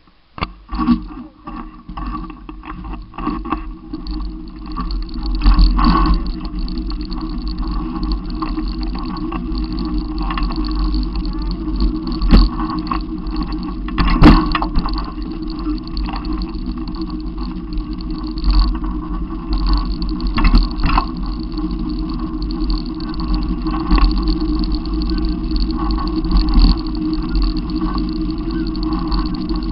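Car engine and road noise heard from inside the cabin, steady throughout, with a few knocks in the first few seconds and single sharp clicks about twelve and fourteen seconds in.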